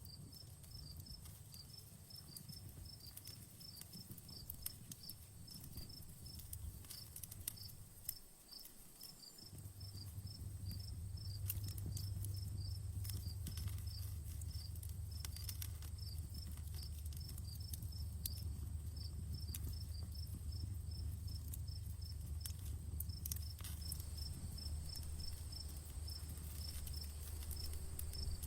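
Outdoor campfire crackling with scattered sharp pops, while a cricket chirps in a steady, regular rhythm. A low rumble under the fire drops out briefly and then grows louder about ten seconds in.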